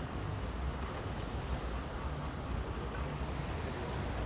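Steady outdoor background rumble, low and even, with no distinct events.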